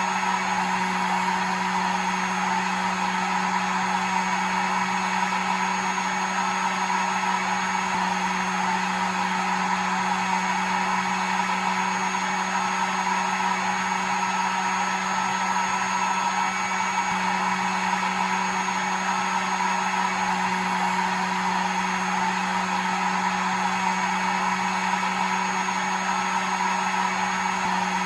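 A hair dryer running steadily: an even rush of blown air over a constant motor hum.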